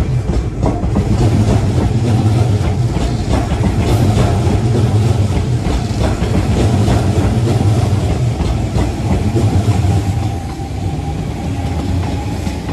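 Hanshin 8000 series electric train moving past close by: a heavy rumble with the wheels clicking over the rail joints. A faint motor whine slowly rises in pitch over the last few seconds.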